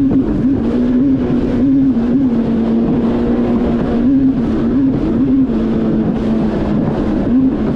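Yamaha VX Cruiser H.O. WaveRunner's 1.8-litre four-stroke engine running at high speed, steady with brief blips up in pitch now and then, over a constant rush of wind and water.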